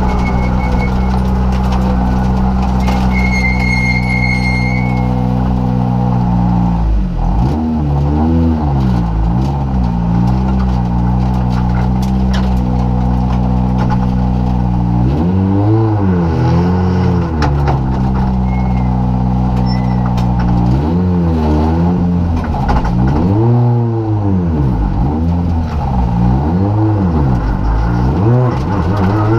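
Rally car engine heard from inside the cockpit, held at steady revs for the first several seconds, then repeatedly rising and falling in pitch through gear changes and throttle lifts for the corners, and climbing again near the end as the car accelerates.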